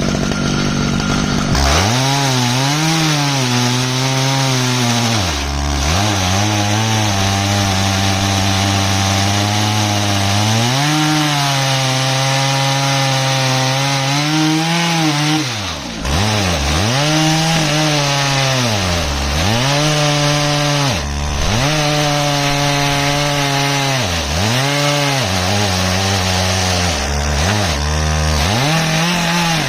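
Stihl MS881 two-stroke chainsaw running in an Alaskan chainsaw mill, ripping through an ash log. The engine note rises and falls as the saw pulls down under load in the cut, with several quick dips in pitch in the second half.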